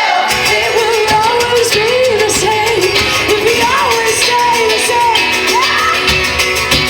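Live pop-rock band music with a singing voice sliding and holding notes over it.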